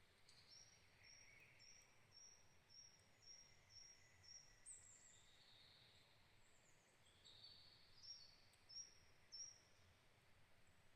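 Faint birdsong: a run of short, high repeated notes at about two a second, then a few other calls, with three louder notes near the end, over a faint steady hiss.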